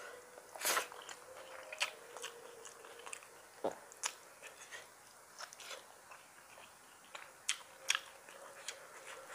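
Close-miked mouth sounds of a person eating rice with his fingers: chewing and wet lip smacks, with short sharp clicks and smacks scattered throughout.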